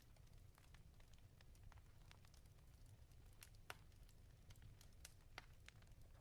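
Faint wood fire crackling in a fireplace: irregular small snaps and pops over a low rumble, with a sharper pop a little past the middle.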